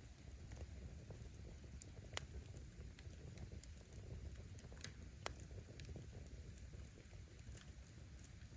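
Wood fire (campfire of split firewood) burning: a low steady rumble with scattered sharp crackles and pops of the logs, two louder pops about two and five seconds in.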